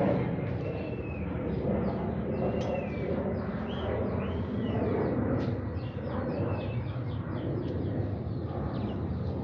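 Outdoor field recording with a steady low rumble and scattered short bird chirps, a few at a time, over a faint rapid ticking.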